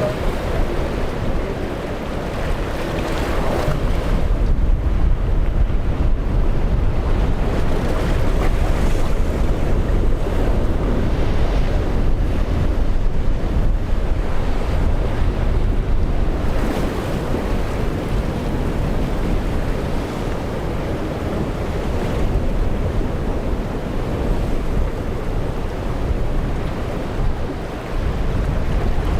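Wind buffeting the microphone over the rush of rough surf, swelling and easing in gusts.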